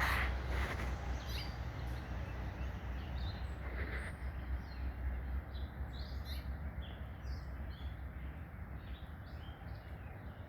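Backyard songbirds chirping in short, high calls, many of them from about three seconds on, over a steady low rumble.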